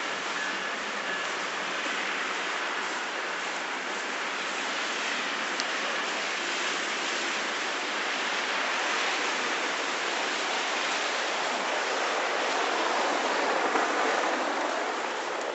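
Steady hiss of tyres on a wet, slushy road, growing louder near the end as a vehicle passes.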